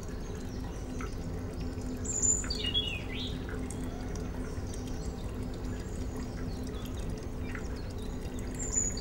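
Outdoor ambience: a few short bird chirps, a couple about two seconds in and another near the end, over a steady low hum and faint background noise.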